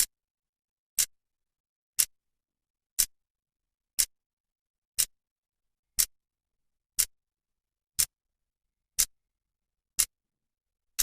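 Clock second hand ticking once a second: sharp, bright clicks with dead silence between them, about eleven ticks.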